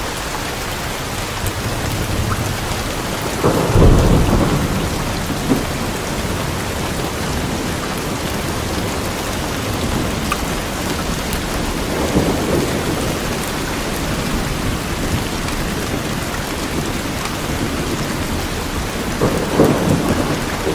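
Steady rain falling on forest trees, an even hiss with scattered drops, swelling into a deeper, louder rumble about four seconds in, again around twelve seconds, and near the end.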